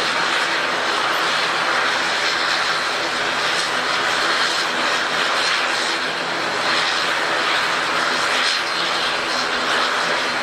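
Airliner engines running steadily and loudly, a continuous rushing noise with a low steady hum beneath it.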